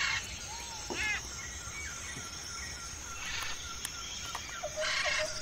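Birds calling outdoors: a couple of short curved calls at the start, then a run of quick, evenly spaced chirps near the end, over a steady high-pitched background.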